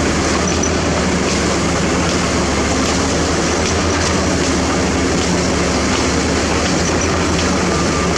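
Heavy diesel construction machinery running steadily, with a low engine drone under a dense mechanical clatter and hiss and a few faint clicks.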